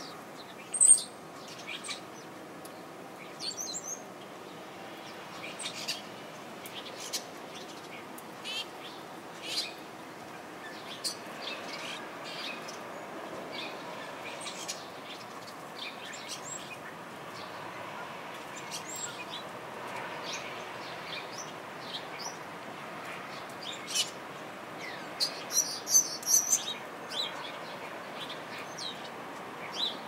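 Small songbirds chirping and calling in short, scattered high notes, with a loud call about a second in and a quick cluster of calls near the end, over a steady background hum.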